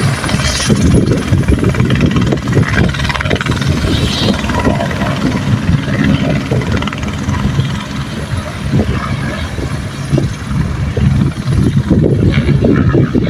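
Helicopter running close by: a loud, steady low rumble of rotor and engine, broken into rapid pulses.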